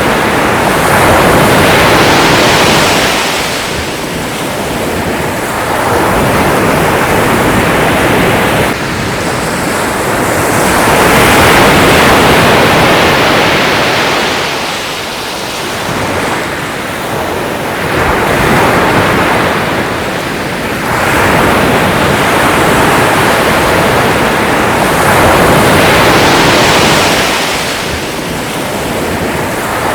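Sea waves breaking and washing in. A steady rush of surf swells and fades again every several seconds.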